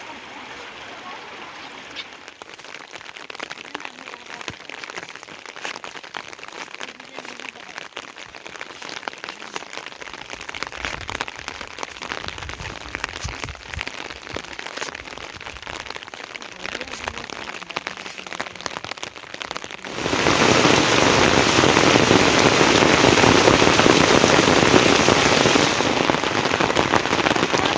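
Rain falling, with many separate drops heard in the first part; about two-thirds of the way through it turns suddenly much louder and denser, a heavy downpour.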